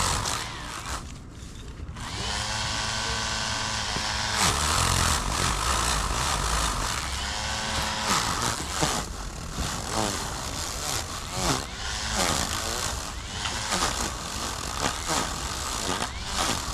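Handheld electric power tool running in repeated bursts: the motor whines at a steady pitch for a second or two and winds down, several times over, then near the end is revved in quick short pulses, its pitch sweeping up and down.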